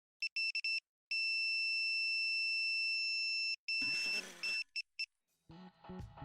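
Electronic beeper sounding one fixed high tone: a few short beeps, then one long beep of about two and a half seconds, then more short beeps with some rustling, before music comes in near the end.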